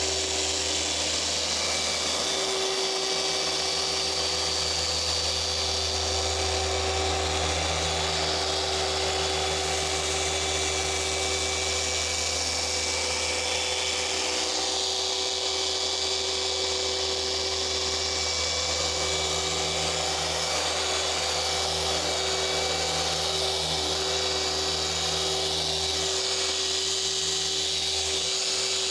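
Small electric car polisher running steadily with a pad on the paint during paint correction, a constant motor whine and hum that holds one pitch throughout.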